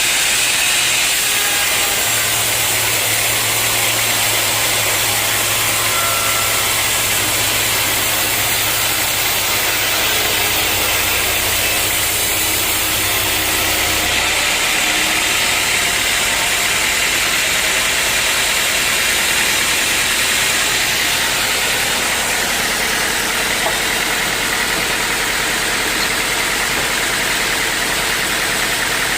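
Sawmill machinery running steadily, an engine-like noise with a low hum that drops away about halfway through.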